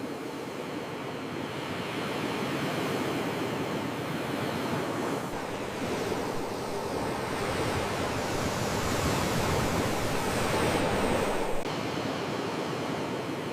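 Sea waves washing in a continuous surge that slowly builds to a peak and then falls back abruptly near the end.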